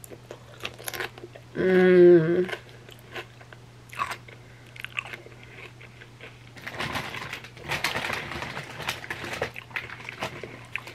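Chewing and biting into chips with a cheesy barbecue dip: scattered wet clicks and smacks, and a short hummed 'mm' about two seconds in, the loudest moment. From about seven seconds in comes a few seconds of dense chip crunching.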